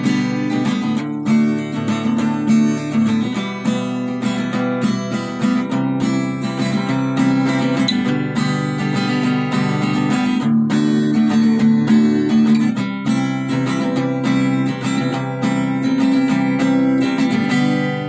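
Music: a strummed acoustic guitar, fading out at the end.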